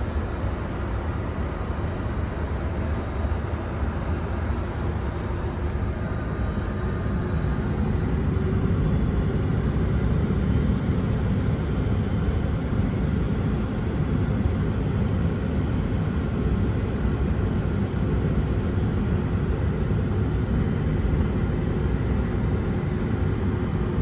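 Steady flight-deck noise of a Boeing 747 on the ground with its engines running: a low rumble and a hiss of air, with a few faint steady whining tones. It grows a little louder about eight seconds in.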